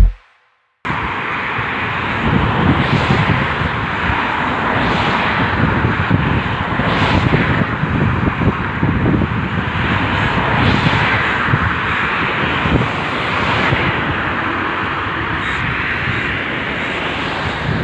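Steady rushing noise that swells slightly about every two seconds, starting just under a second in after a brief silence.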